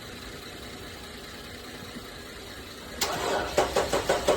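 Car engine being cranked on a jump start: a steady low running hum, then about three seconds in the starter turns the engine over with a fast, even chugging of about five beats a second.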